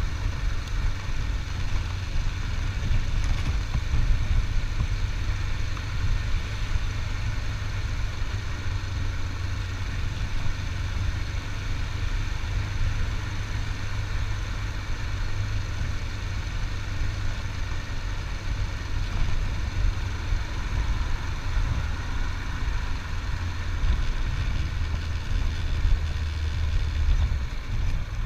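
Motorcycle engine running steadily while riding, a continuous low rumble with no marked rises or drops.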